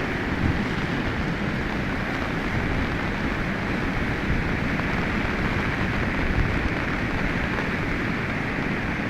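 Swat River in flood: a steady, dense rush of fast-moving floodwater.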